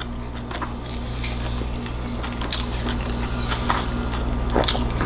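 Close-miked chewing and wet mouth smacks from eating a salmon taco in a soft handmade tortilla, with scattered clicks, the sharpest near the end, over a steady low hum.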